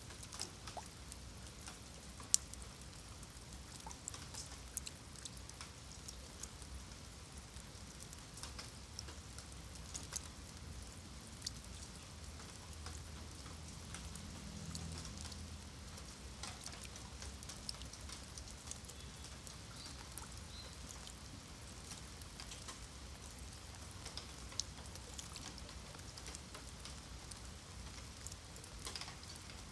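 Light rain falling on wet paving and shallow puddles: a steady soft hiss with individual drops clicking at irregular intervals.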